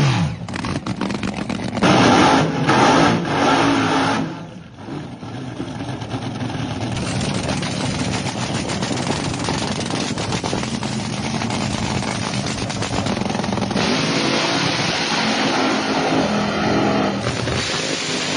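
Nitro drag car engine ('nitro bug') revving in loud blips, dropping off briefly, then running in a long, steady, slowly building drone.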